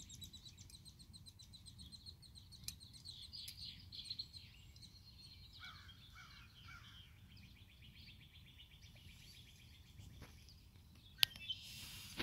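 Faint bird song: a rapid, high trill of fast repeated notes, with a few lower chirps partway through and the trill starting again after them. A single sharp click near the end.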